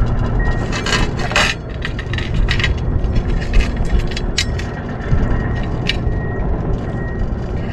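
Strong wind buffeting the microphone with a heavy, uneven rumble, with scattered small clicks and scrapes over it, the densest about a second in.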